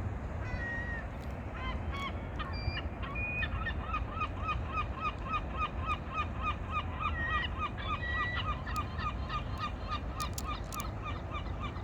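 Water birds giving a rapid series of short, repeated calls, about three a second, starting about two seconds in, over a steady low rumble.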